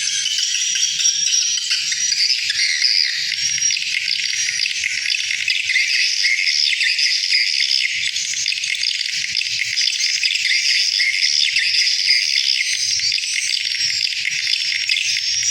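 Many swiftlets twittering at once, a dense, unbroken chatter of overlapping high chirps.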